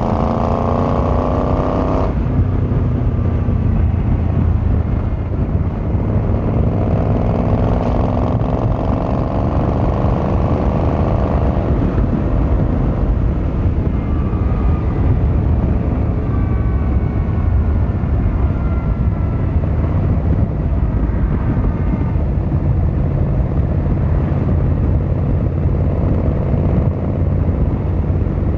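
Yamaha XVZ1300 Royal Star's V4 engine and exhaust under way. The engine note climbs and cuts off sharply about two seconds in, as at a gear change, climbs again from about six to twelve seconds, then settles into a steady low rumble.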